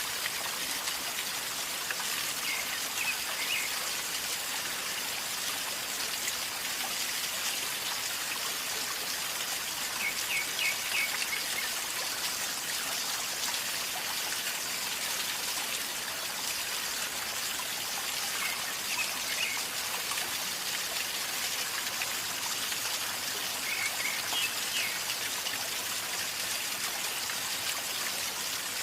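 A river flowing and gurgling steadily, an even rushing hiss of water. Four times, brief bursts of a few quick high chirps sound over it.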